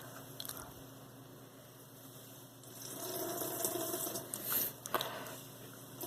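Water running and dripping from a piece of soaked laundry, starting about three seconds in and lasting a couple of seconds, with a short knock near the end. The washer's silent cycle spins too slowly to wring the clothes, so they come out dripping wet.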